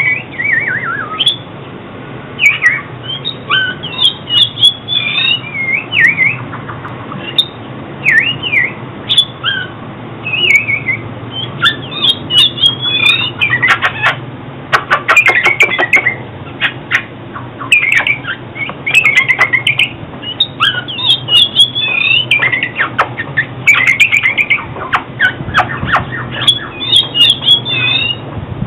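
Oriental magpie-robin singing: a continuous run of varied whistled phrases with rising and falling notes, mixed with quick harsh clicking notes. A steady low hum runs underneath.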